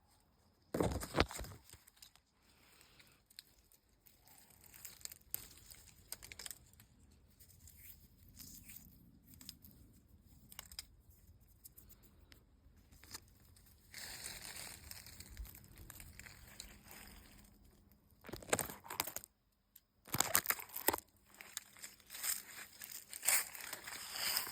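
Old, flaking paint being peeled and scratched off a weathered building surface, crackling and tearing in irregular bursts. There is a sharp burst about a second in, a steadier scraping stretch past the middle, and a cluster of louder crackles near the end.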